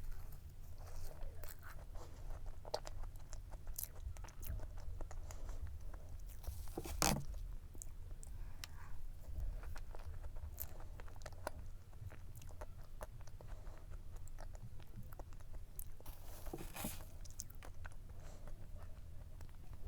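Close-miked eating of cake: chewing and crunching bites, with a louder crunch about seven seconds in and another near the end.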